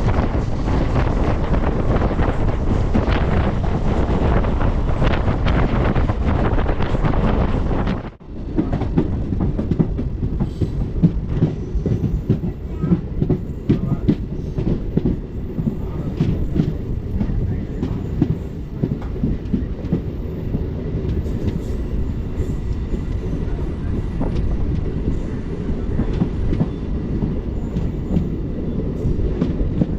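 MEMU electric train running at speed: a rushing wind noise on the microphone at first, then, after a sudden break about eight seconds in, the rumble of the coach with wheels clacking over the rail joints.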